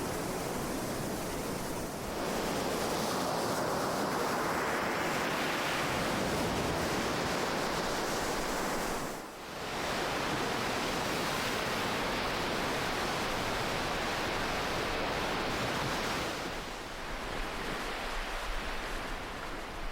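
Ocean waves breaking and washing in as continuous surf. A wave swells up about two seconds in, there is a brief lull about halfway through, and the surf eases off somewhat near the end.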